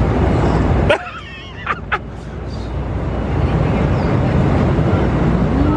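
Steady rumbling drone of an airliner cabin in flight. About a second in it drops suddenly, a brief wavering high-pitched whine and a couple of clicks sound, then the drone builds back up.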